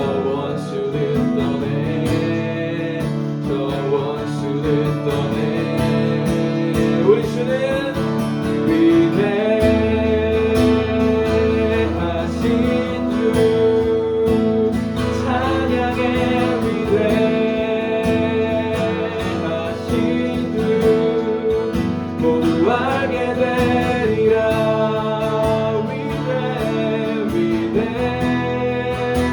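Worship song with acoustic guitar and singing voices; a low bass comes in about ten seconds in.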